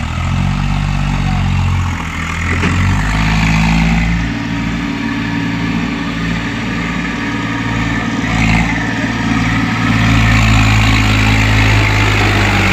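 Tractor's diesel engine running under way, with a steady low note that shifts pitch a couple of seconds in and gets louder near the end.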